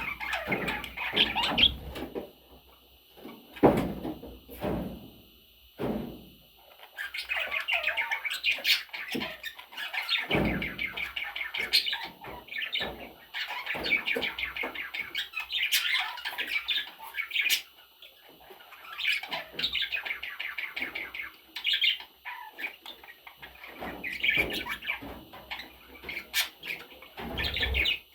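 Pet budgerigars chattering and warbling in long bouts of rapid, busy chirps, with a few low thumps in the first few seconds and again later on.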